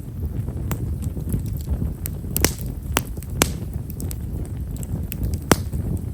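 Bonfire of himeshara (Stewartia monadelpha) firewood burning, with a steady low rumble under fine, small crackles. A few sharper pops come through, the loudest about five and a half seconds in.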